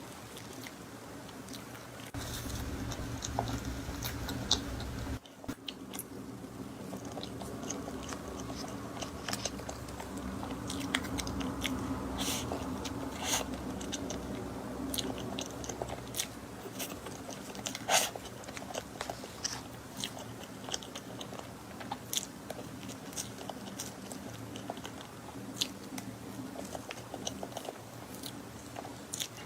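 A person chewing and biting cream cake close to the microphone: wet mouth clicks and soft smacking scattered irregularly, over a steady low hum.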